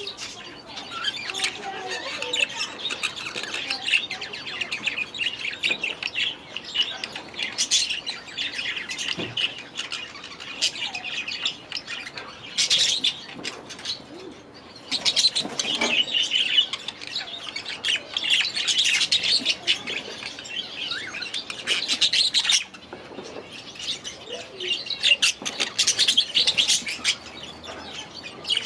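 A flock of budgerigars chattering and chirping without pause, with louder spells of calls through the middle and again near the end.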